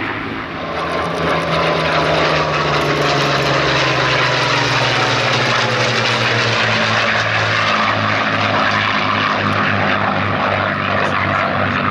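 Piston-engined propeller warbird flying past at an airshow; its engine note drops in pitch as it passes, then carries on with a steady throb.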